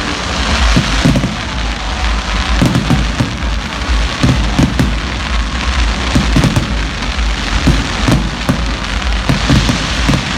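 Fireworks display going off: many bangs and crackles in irregular quick succession over a steady low rumble.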